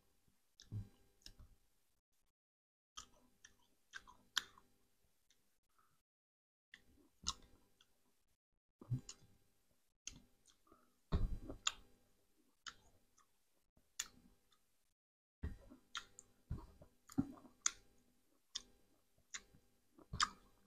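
Close-miked chewing of sour fruit pieces, lemon and Indian gooseberry: wet mouth clicks and small crunches in irregular bursts, broken by a few short spells of dead silence.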